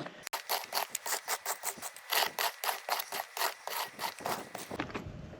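Rapid, rhythmic scraping strokes on stony, gravelly ground, about five a second, stopping near the end.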